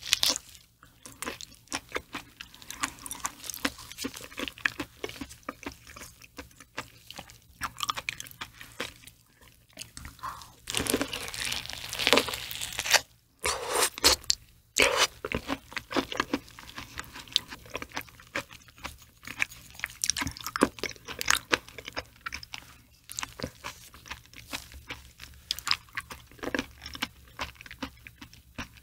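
Close-miked chewing of raw liver: wet smacking and many short mouth clicks, with a busier run of chewing a little before halfway.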